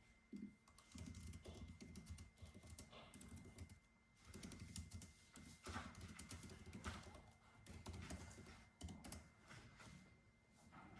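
Faint computer keyboard typing: irregular runs of quick keystrokes, with a short pause about four seconds in and another near the end.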